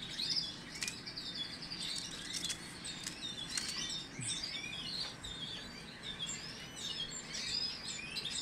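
Canaries chirping and twittering, many short overlapping calls from several birds at once, with a few sharp clicks in the first half.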